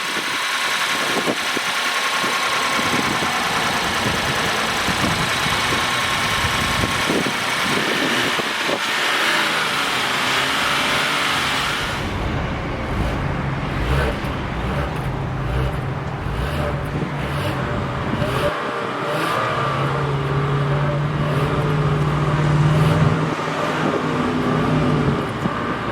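2021 Genesis G80's 3.5-litre twin-turbocharged V6 running, with a high whirring hiss over it for the first twelve seconds or so. Then the sound turns to a deeper exhaust note, and the engine is revved up and down a few times in the second half, loudest a few seconds before the end.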